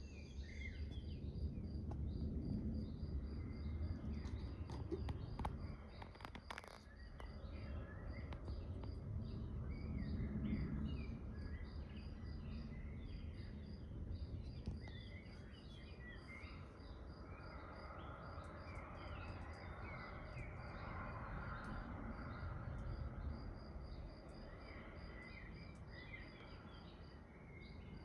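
Outdoor ambience: small birds chirping on and off over a low background rumble, with a steady high insect-like pulse about twice a second. A few sharp clicks come about six seconds in.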